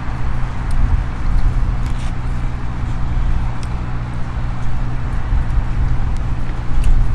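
Low, steady hum and rumble of a running vehicle engine.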